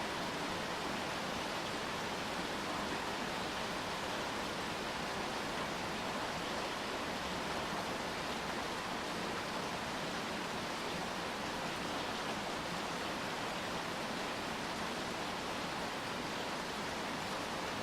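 Steady rain falling, an even hiss that holds at one level throughout with no separate drops or knocks standing out.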